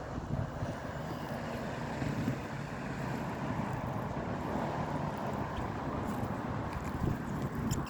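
Road traffic going past: a steady rumble of engines and tyre noise on the road.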